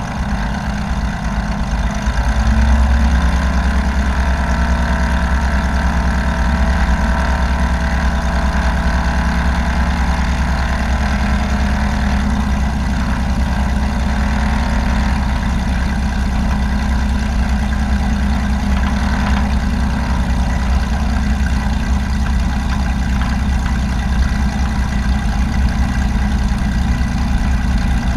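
Light aircraft engine running as a steady drone, with a shift in pitch and a rise in loudness about two seconds in.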